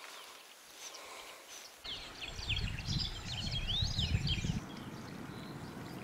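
Small songbird singing in quick chirps and sweeping whistles from about two seconds in, over a low rumble; a steady background hiss takes over for the last second or so, with only faint chirps before the song.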